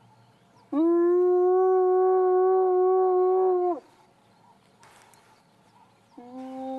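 Spotted hyena whooping: one long, steady call lasting about three seconds, then a second, lower call starting near the end.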